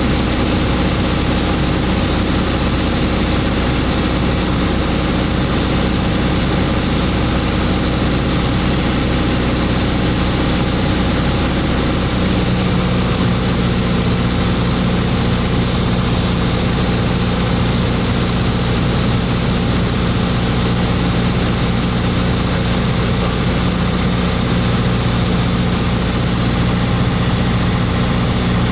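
Propeller airplane's engine running steadily during the approach to land, with a constant drone. About twelve seconds in, the engine note changes to a different steady pitch.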